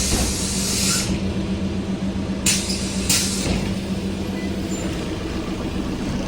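ZiU-682G trolleybus's pneumatic system letting out compressed air: a hiss that stops about a second in, then two short hisses about half a second apart, over a steady low hum.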